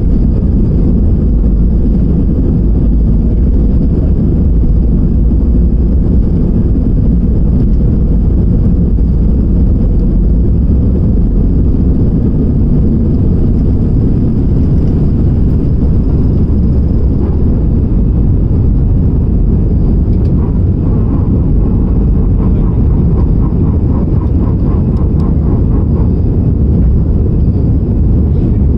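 Steady low roar inside an airliner cabin in flight: engine and airflow noise with a faint high whine above it.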